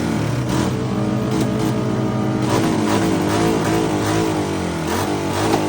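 Motorbike engine revving, its pitch rising and falling repeatedly, with regular clicks about twice a second over it.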